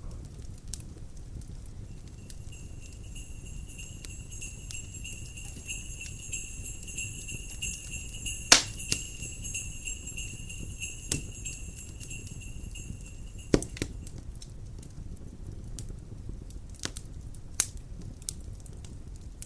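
Jingle bells ringing steadily for about twelve seconds, starting about two seconds in, over a crackling wood fire. The fire gives a few sharp pops and there is a low steady rumble of wind.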